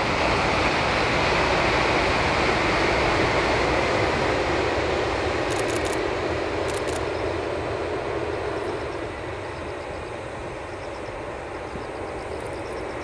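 N700 series Shinkansen running at high speed across a steel truss bridge: a steady rushing rumble, loudest in the first few seconds, then slowly fading over about ten seconds as the train moves away.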